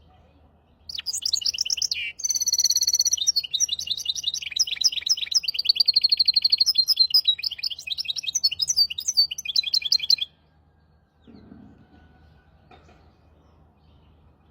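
Hybrid finch (mule) singing one long, fast song phrase of rapid high trills and repeated notes for about nine seconds, stopping abruptly; a faint steady hum underneath.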